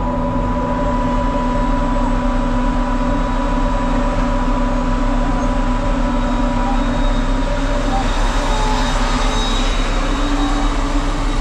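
Heavy diesel farm machinery running steadily, a constant engine drone with several steady tones. A hissing, rushing noise builds up about eight seconds in.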